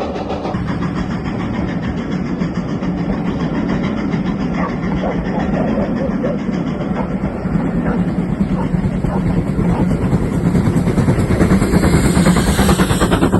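A train's locomotive engine running hard as the train passes close by, a steady rumble with a rapid pulsing beat that grows louder and then stops abruptly at the end.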